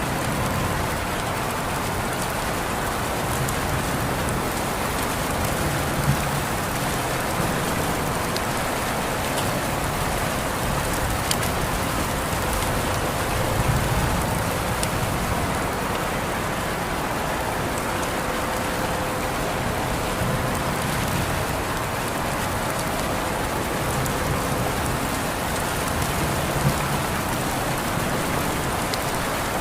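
Steady rain falling on a surface, an even hiss with scattered individual drop ticks and a few louder drips.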